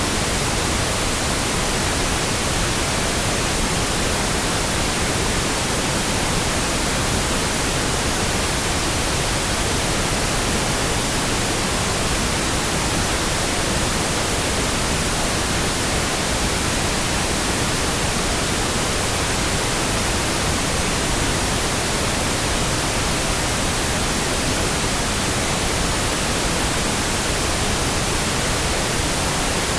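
Steady, unchanging pink noise, an even hiss with no breaks or events.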